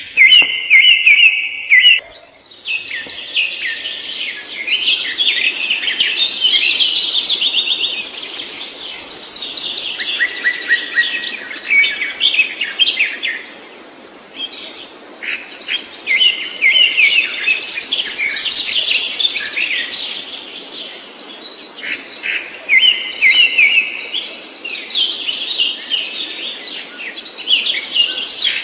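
Songbird song: fast chirps and warbled phrases, each sequence building to a high, held trill, with the whole pattern repeating about every nine to ten seconds.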